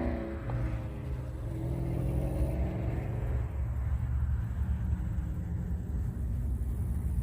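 Car engine running slowly, a steady low rumble with little above it.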